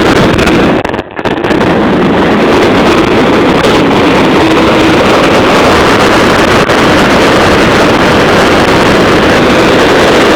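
Motorcycle engine running during a ride, with loud wind buffeting the microphone; the sound drops briefly about a second in, then carries on steadily.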